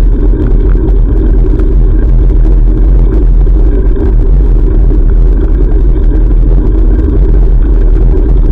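Steady, loud low rumble of wind buffeting an action camera's microphone while cycling, with road and traffic noise underneath.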